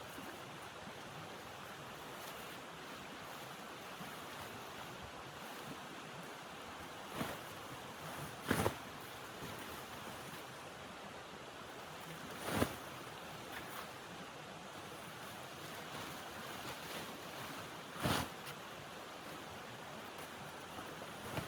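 Blizzard wind blowing steadily, a constant rushing noise, with four brief thumps spread through it.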